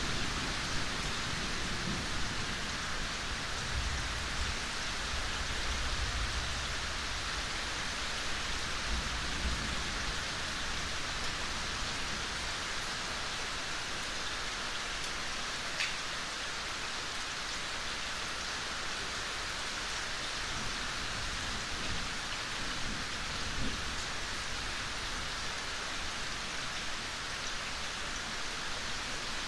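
Steady rain falling in an even hiss, with a low rumble of thunder dying away over the first ten seconds or so.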